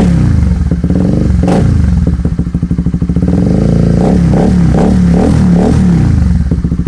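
Honda CBR150R single-cylinder engine running through an Akrapovic exhaust, revved once near the start and then given a quick series of throttle blips in the second half, with a sharp click about a second and a half in.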